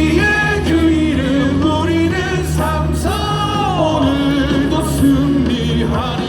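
Loud music with singing, a cheering song played over a ballpark's loudspeakers.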